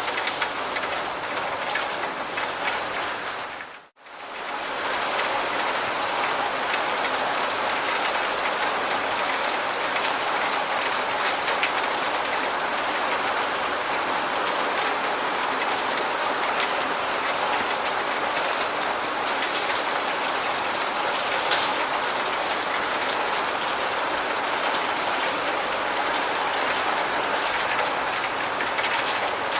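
Steady rain falling: a dense, even hiss with scattered drop ticks. It cuts out for a split second about four seconds in, then resumes at the same level.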